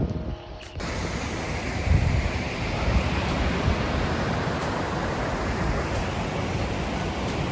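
Ocean surf washing steadily, with wind gusting on the microphone. The sound starts abruptly about a second in.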